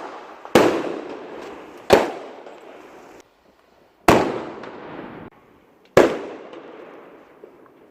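Fireworks going off: four loud bangs, roughly one every two seconds, each trailing off after the blast.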